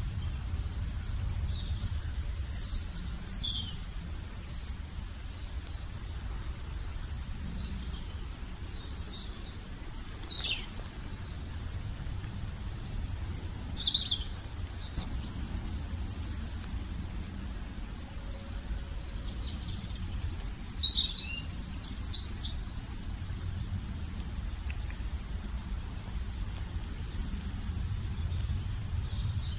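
Birds chirping and calling in short, high-pitched phrases, with louder bursts of calls a few seconds in, near the middle and about two-thirds of the way through. A steady low rumble runs underneath.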